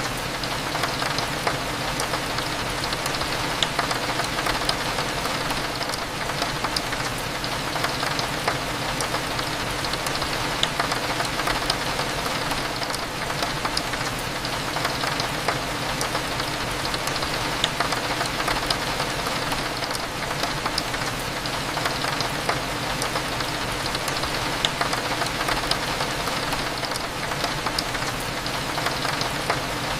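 Steady rain falling on a window, with many small sharp drop clicks scattered throughout, over a low steady cafe hum.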